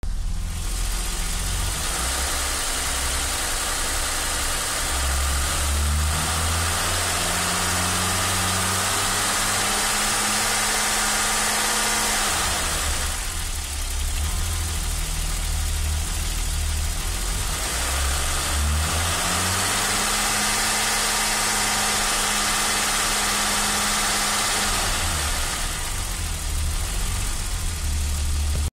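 BMW M20B20 2.0-litre inline-six engine running, revved up twice and held at higher revs for several seconds each time, dropping back to idle in between.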